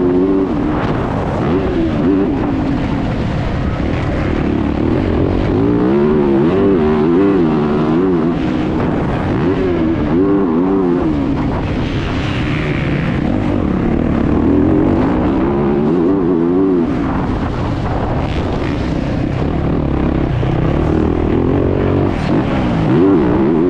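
Motocross bike engine heard onboard at close range, revving up and falling back again and again as the rider accelerates, shifts and backs off around the track.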